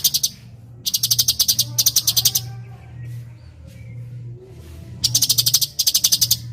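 Bird, probably the cucak cungkok, giving rapid high-pitched chattering trills in pairs of short bursts: one right at the start, a pair about a second in and another pair about five seconds in, with faint whistles between them. A steady low hum runs underneath.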